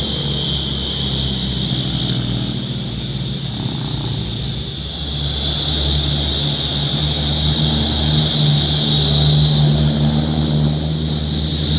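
Heavy truck's diesel engine running steadily, with a steady high whine above it; the engine gets a little louder after the middle.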